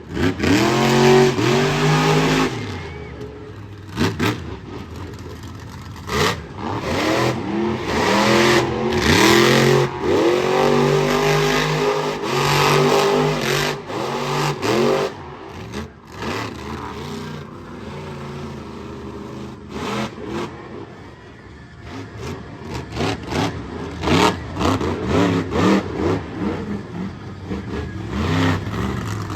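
Monster truck engine revving hard, its pitch climbing and dropping again and again. Later there is a run of sharp cracks and bangs.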